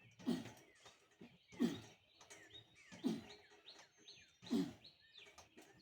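A man breathing out hard with each pull-up, five strong breaths in an even rhythm about a second and a half apart. Birds chirp between them.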